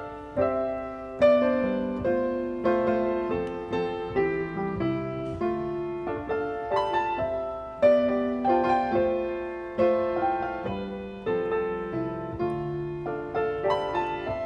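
Piano playing an instrumental solo passage, melodic notes and chords struck one after another and left to ring and fade.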